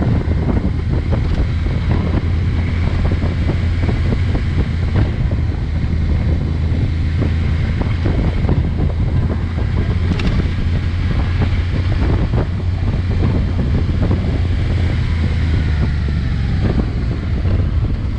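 Wind buffeting the microphone over the steady low drone of a Honda NT650V Deauville's 647 cc V-twin engine running under way.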